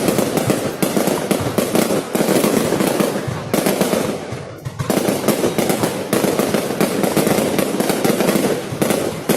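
Fireworks going off in a dense barrage of rapid crackling bangs, easing off about three and a half seconds in and picking up again about a second later.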